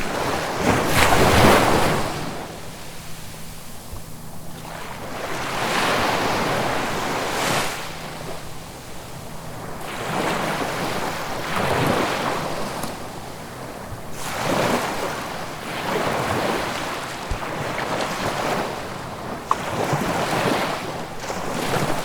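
Ocean waves breaking and washing up the shore one after another. Each surge of rushing water swells and fades every few seconds, and the loudest comes about a second in.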